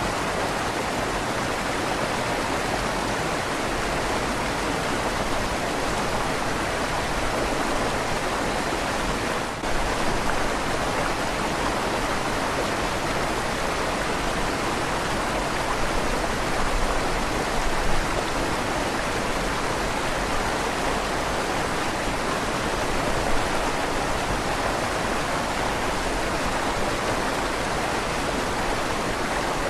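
River water flowing steadily beneath a stone bridge, with a slight echo off the inside of the bridge's tunnel.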